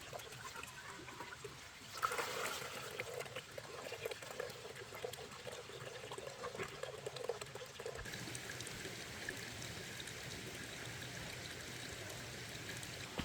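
Water pouring and splashing, starting with a louder splash about two seconds in and running for several seconds, then giving way to a faint steady hiss.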